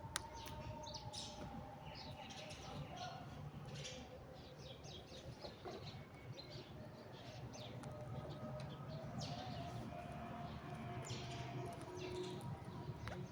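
Parrots chirping: many short, sharp chirps in quick, irregular succession.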